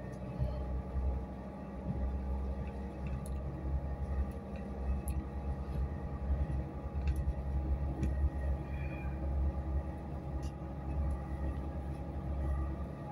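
Inside a moving passenger train: a steady low rumble from the carriage running over the track, with a faint steady hum above it and a few small clicks and rattles.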